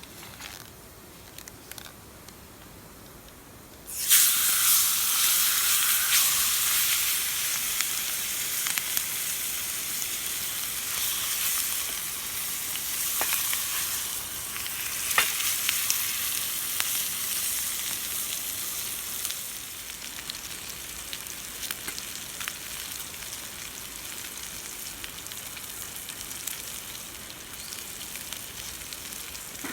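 Food sizzling in a hot pan. It starts suddenly about four seconds in, loud at first, and settles into a quieter steady sizzle with small pops about twenty seconds in.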